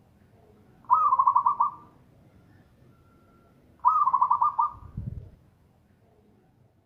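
Zebra dove (perkutut) singing two short phrases of quick, rippling coos, one about a second in and another about four seconds in. A brief low thud follows the second phrase.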